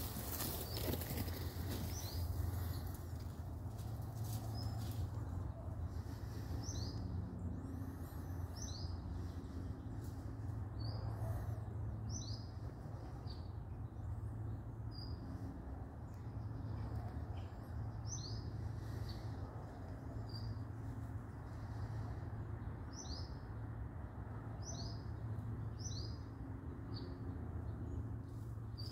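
A small bird calling with short, high chirps that slide downward, often in quick pairs, repeated every second or two over a steady low hum.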